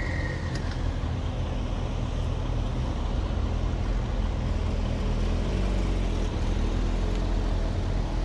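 Car engine running steadily at low revs, a constant low hum with no change in pitch.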